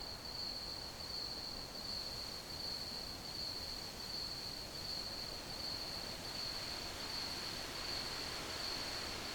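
Crickets chirping in a continuous high-pitched trill that swells and fades slightly in a slow rhythm, over a soft steady background hiss.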